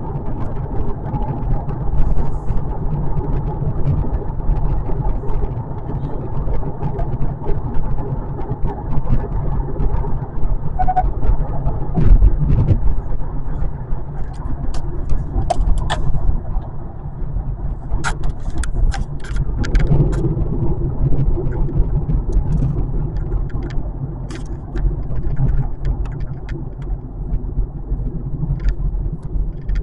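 Steady road and drivetrain rumble heard inside the cabin of a moving 2025 Kia K4 GT-Line. Short clicks come and go, most of them about halfway through, with one thump a little before.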